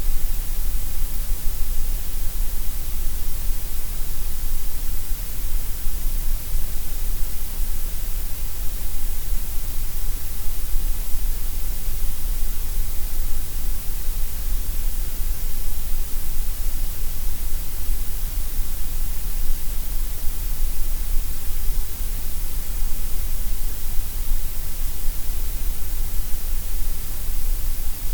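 Steady grey noise: an even, unchanging hiss spread across the whole range of pitch, heavier in the deep lows and the highs than in the middle.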